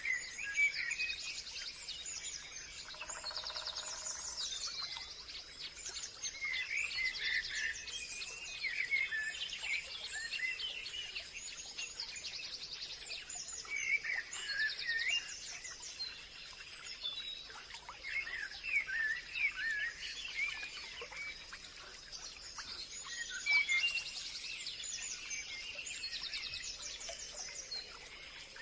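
Forest birdsong: several birds chirping, trilling and whistling over one another, with a thin steady high-pitched tone underneath.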